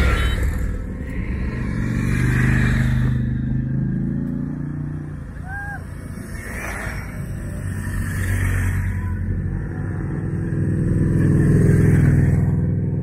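Motorcycle engines passing one after another as riders pull away, the sound swelling and fading three times. A brief high chirp sounds near the middle.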